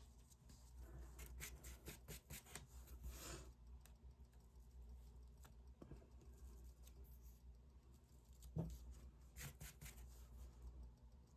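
Faint light taps and short scratches of hand craft work on a tabletop, with one louder knock about eight and a half seconds in.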